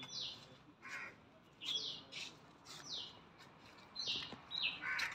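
A bird calling repeatedly, each call a short whistled note falling in pitch, coming about once a second.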